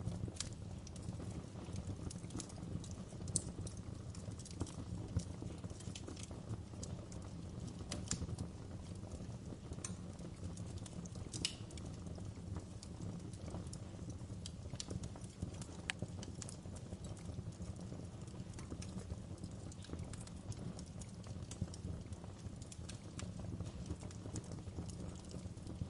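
Wood fire burning in a fireplace: irregular crackles and pops from the burning logs over a steady low rumble of the flames, with a few sharper pops standing out.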